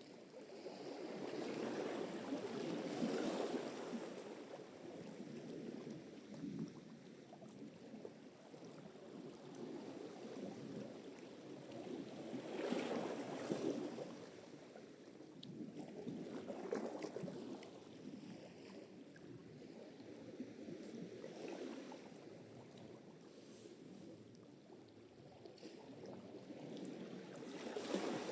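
Sea surf: waves washing in and drawing back, the noise swelling and fading every few seconds, with louder waves breaking near the start, around the middle and at the end.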